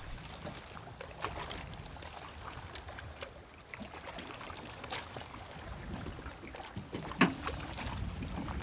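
Wind buffeting the microphone and choppy river water slapping against the hull of a small boat, with a few light knocks, the strongest near the end.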